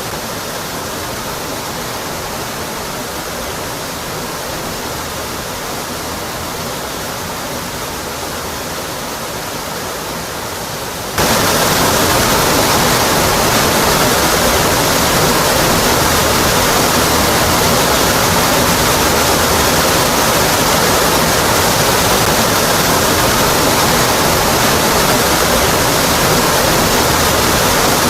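Rocky Brook Falls waterfall: a steady rush of falling water. About eleven seconds in the sound jumps suddenly louder and brighter, then holds steady.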